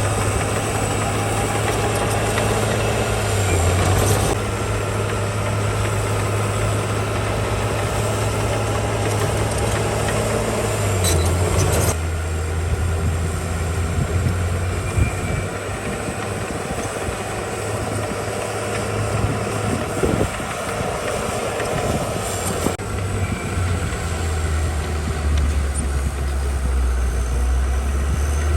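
Komatsu D41E bulldozer's diesel engine running under work, its low note shifting a few times as the load changes.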